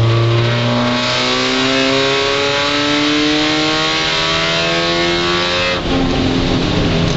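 Spec Miata's four-cylinder engine heard from inside the cockpit, pulling hard with its pitch climbing steadily. Near the end an upshift drops the pitch suddenly and it starts climbing again.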